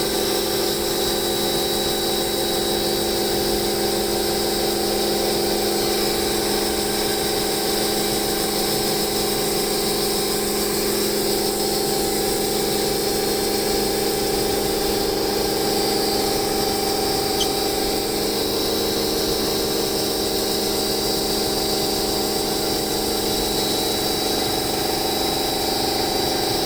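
Karcher pressure washer running steadily, its motor and pump giving a constant whine under a hiss of water spraying through a 15-inch rotary surface cleaner.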